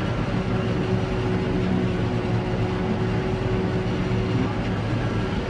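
Tractor and forage harvester engines running steadily under load at a constant pitch, a low drone.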